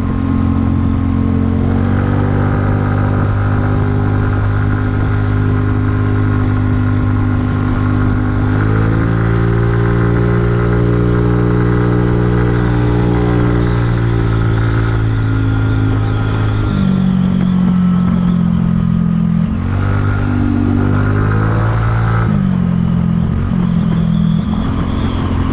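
Kymco People 250 scooter engine running under way, its exhaust leaks patched with high-heat epoxy. Its note climbs about a third of the way in, holds steady, drops a little past halfway, then rises and falls again near the end as the throttle changes in traffic.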